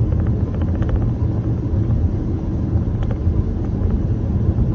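Steady low rumble of a car on the move, engine and road noise without a break.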